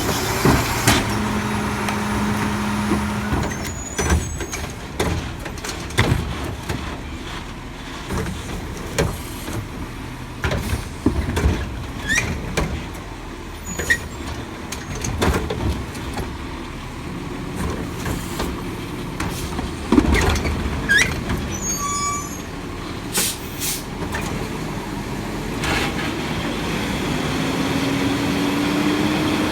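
Garbage truck engine running through a collection, with repeated sharp clanks and bangs of metal and bins. Near the end the engine's pitch rises as it revs up.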